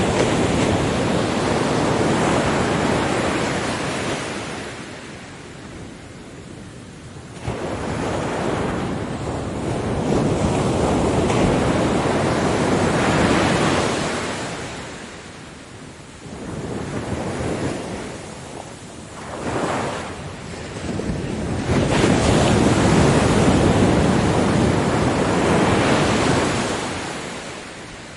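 Ocean waves breaking on a beach, a rushing surf noise that swells and ebbs as successive waves come in and wash back, about five surges in all.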